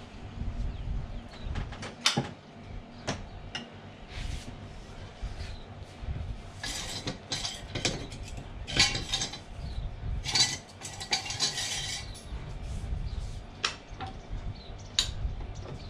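Small metal pieces clinking and rattling as they are handled, with a busier spell of rattling from about halfway through.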